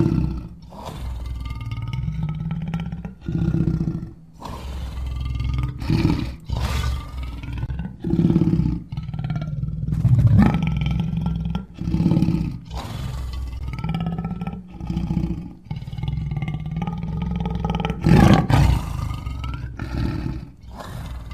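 Lions roaring and growling in a string of separate calls, each a second or two long, several starting or stopping abruptly.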